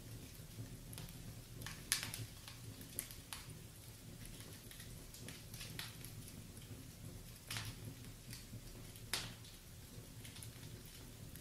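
Wood fire in a fireplace burning steadily and crackling softly: scattered sharp pops and snaps over a low rumble of the flames, the loudest snaps about two seconds in and near nine seconds.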